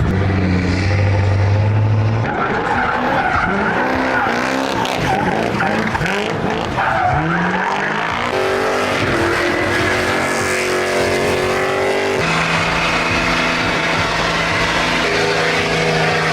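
Truck engine revving hard during a burnout, its pitch swooping up and down and then held high and steady, with tires spinning and squealing.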